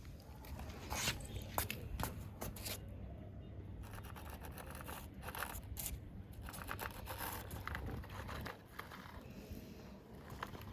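Scraping and rustling with many irregular sharp clicks, like toy vehicles being pushed and dug through loose soil.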